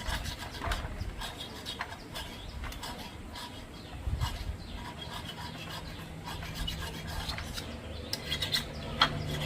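Rubbing and scraping with many scattered light clicks, as of hand work on mechanical parts. A faint steady hum comes in near the end.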